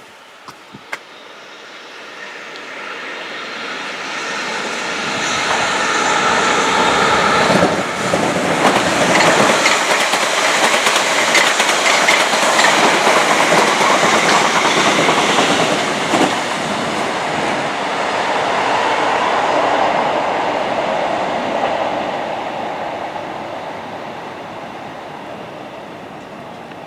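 A train passing by: its noise builds over several seconds, holds at its loudest for about ten seconds with wheels clattering over the rails, then fades slowly away.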